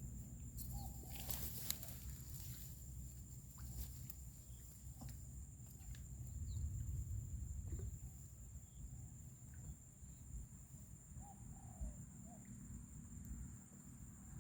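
Quiet outdoor ambience: a low rumble with scattered small clicks and knocks, a steady thin high whine, and a few short bird calls, one about a second in and a couple more near the end.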